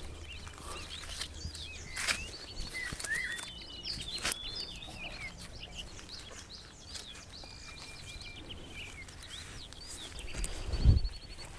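Several small birds chirping and singing, with short rising and falling calls and a few quick trills. A couple of sharp knocks sound in the first half, and a low heavy thump comes near the end.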